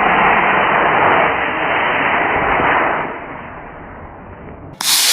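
Model rocket motor burning with a loud, steady rushing hiss that weakens after about three seconds. Near the end the sound changes abruptly to a short, brighter burst of noise.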